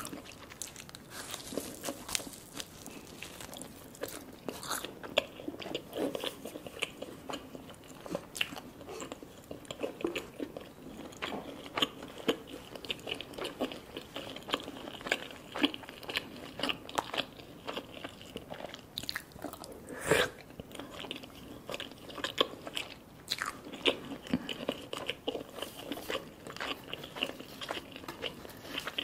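A person chewing and biting a meal of garlic naan dipped in curry and spoonfuls of lamb curry, with many small mouth clicks throughout.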